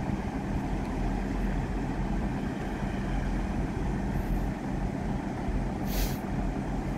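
A train standing with its engine or on-board equipment running in a steady low rumble and hum, with a brief hiss of released air about six seconds in.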